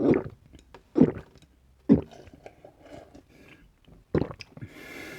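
Close-miked mouth sounds of a person drinking sikhye, the Korean sweet rice drink: loud swallows about a second apart, four in all, then a breathy hiss near the end.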